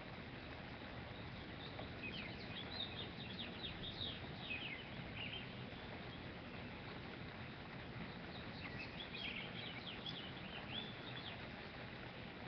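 Birds chirping and singing in short phrases, in two spells of song a few seconds apart, over steady low background noise.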